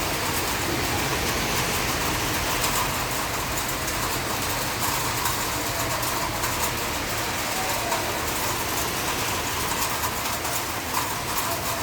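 Heavy rain pouring steadily: a dense, even hiss with no thunderclap in it.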